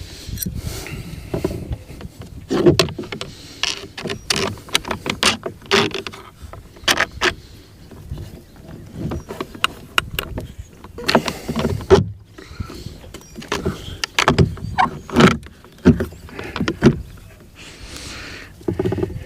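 Hand work on parts: irregular clicks, knocks and rattles of tools and hardware being handled and fitted.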